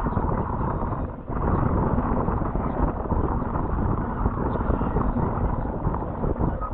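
Wind rumbling and buffeting the microphone, with a brief lull about a second in.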